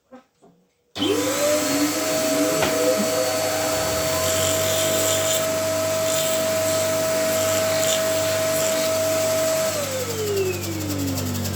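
A shoe repair machine's electric motor switched on, spinning up within a moment to a steady whine over a loud rushing noise. Near the end the whine falls steadily in pitch as the motor winds down, while a low hum keeps going.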